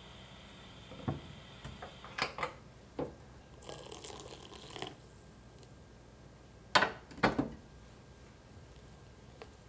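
Kitchen handling sounds during cooking: a few light knocks, a brief rustle, then two sharp clinks a half second apart, the loudest, about two-thirds of the way through.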